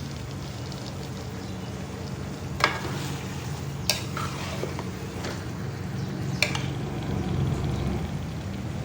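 Chicken karahi frying and sizzling in oil in a wok as it is stirred, with a spoon knocking sharply against the wok three times. A steady low hum runs underneath.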